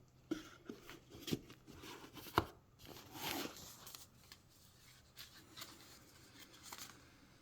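Contents of a CD box set being handled: three sharp taps or clicks in the first two and a half seconds, then soft rustling and shuffling of packaging.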